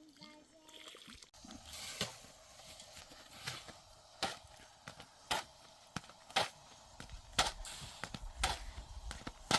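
A series of sharp knocks, about one a second, over faint background noise.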